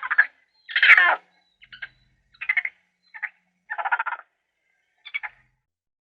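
A series of short, raspy animal calls, about one every half second to a second, with silence between them.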